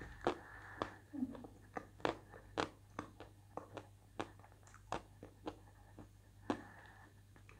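A person chewing a mouthful of edible chalk close to a clip-on microphone. Sharp, irregular crunches come about two a second.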